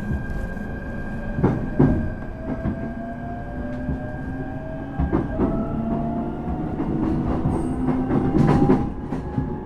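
Electric train running, heard from inside the carriage: a motor whine rises slowly in pitch as the train gathers speed, over a steady rumble. The wheels knock over rail joints, twice in quick succession early on, then again about halfway and near the end.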